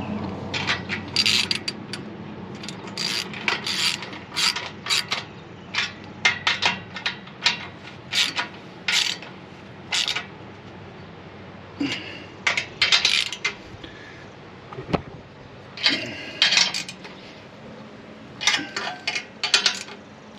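Hand ratchet with a deep-well socket clicking in short runs of back-strokes, pausing between runs, as the nuts on a muffler U-bolt clamp are tightened.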